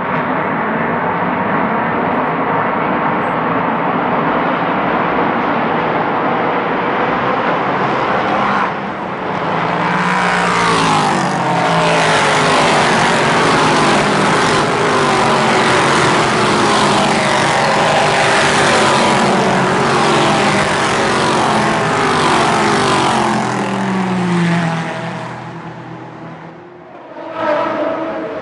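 Several prototype and GT race cars passing at speed one after another, engines at high revs with pitches rising and falling through gear changes and fly-bys. The sound fades briefly near the end before another car comes up loud.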